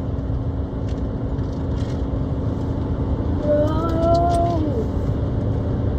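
Steady low road and engine rumble heard from inside a moving car. A single drawn-out voiced cry, bending in pitch, comes about three and a half seconds in and lasts just over a second.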